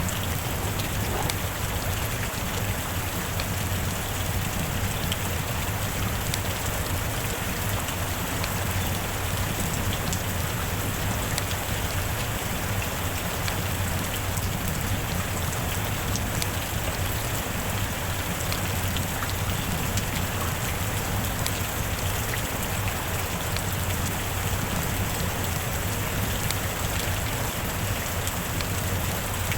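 Steady rain falling without a break, many small drops ticking on a surface.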